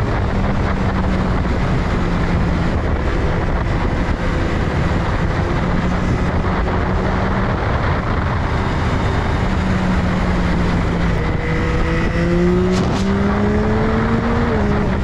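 Yamaha XSR900's 890 cc three-cylinder engine running while riding, under a steady rush of wind and road noise. Near the end the engine note climbs as it accelerates, then drops abruptly.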